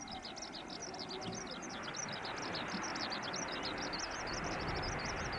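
A bird singing a fast, continuous run of high chirps, over the broad rushing noise of a jet airliner's engines that grows louder from about two seconds in.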